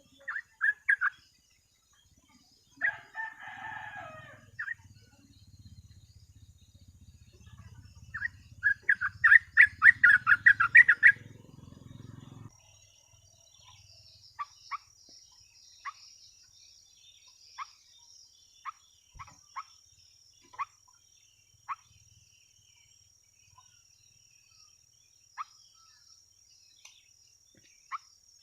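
Yellow-vented bulbul chattering in short bursts, with a loud run of rapid bubbling notes about eight seconds in, then scattered single chirps over a thin steady high tone. A rooster crows once about three seconds in.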